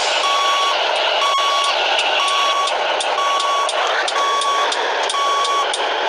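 Reversing alarm beeping steadily about once a second, each beep a single tone lasting about half a second, over the running diesel engine of a Scania 113H truck with a straight-pipe exhaust.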